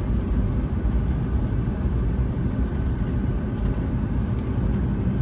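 Steady low rumble of a Boeing 757-200's cabin on the ground before takeoff, the engines running at low power, with a faint steady whine above it.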